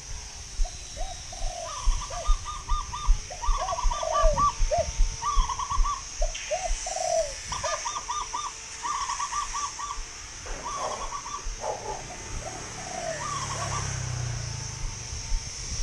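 Birds calling in short repeated phrases: low dove-like coos alongside quicker trilled notes, with a steady high hiss beneath.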